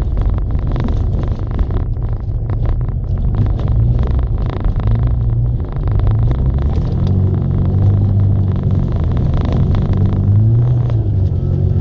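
A Mini's engine running under load as the car drives over a snowy track, heard from inside the car, its note rising in pitch about seven seconds in and again near the end. Frequent short clicks and knocks sound over the engine throughout.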